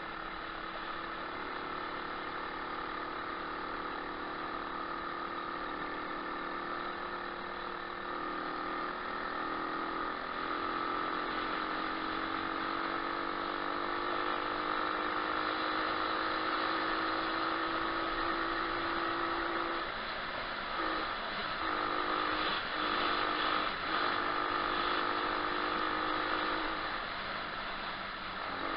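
125cc pit bike engine running steadily under way, its pitch slowly rising. About two-thirds of the way in, the throttle is briefly cut several times.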